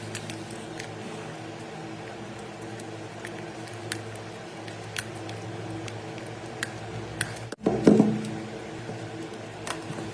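Small electric motor humming steadily, with scattered light clicks and a brief louder noise about eight seconds in.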